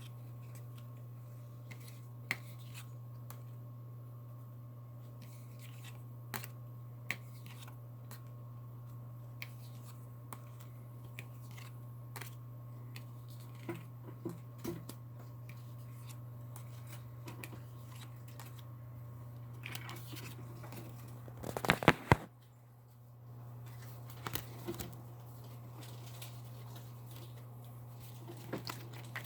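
Tarot cards being handled and laid down: scattered small clicks and rustles, with a louder burst of card rustling about 22 seconds in, over a steady low hum.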